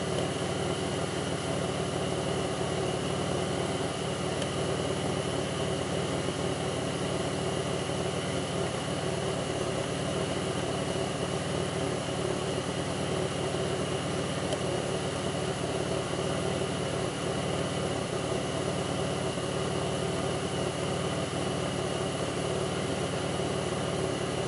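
2002 Pontiac Grand Prix's 3800 V6 engine idling steadily, with a constant high whine running alongside. The owner reports that this engine idles rough, with a faint intermittent thumping that pulls the idle down.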